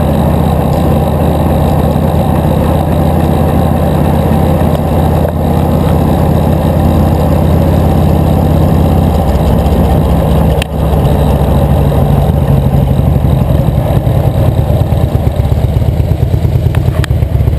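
Loud, steady low rumble of motor-vehicle engines in road traffic, heard from a bicycle, with a brief dip about ten and a half seconds in and a faster flutter after it.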